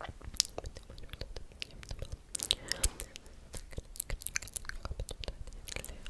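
ASMR mouth sounds close to the microphone: a quick, irregular run of wet clicks and smacks, with a short breathy puff about halfway through.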